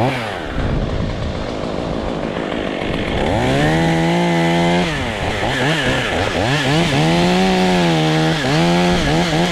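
Chainsaw running low at first, then throttled up a little over three seconds in, its engine pitch dipping and recovering several times, as a saw does when it cuts through a poplar limb.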